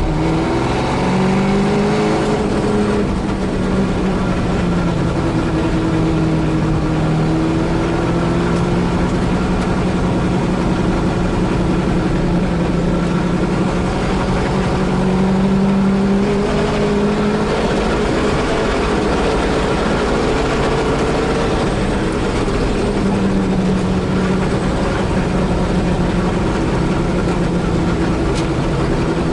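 Holden Torana A9X race car's V8 at racing speed, heard from inside the cabin. It is loud throughout, with the revs climbing and dropping again and again through gear changes and braking.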